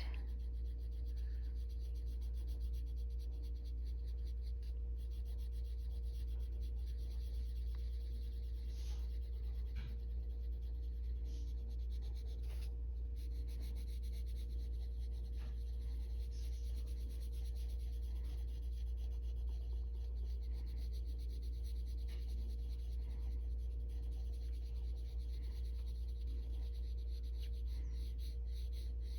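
Coloured pencil scratching and rubbing on paper in short strokes as a colour is layered over an earlier one and feathered out, over a steady low hum.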